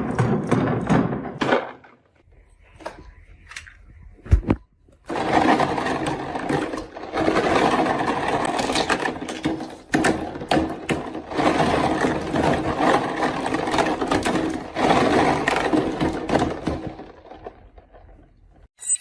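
Marbles rolling and clattering down a wooden marble run: a dense stream of rapid clicks and rumbling, broken by a short lull with a single sharp thud about four seconds in. The rolling then picks up again and dies away near the end.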